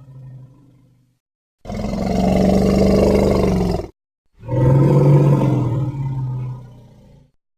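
Two roars from a Triceratops sound effect, each about two to three seconds long with a deep, pitched growl. The second is lower in pitch than the first and fades away at its end.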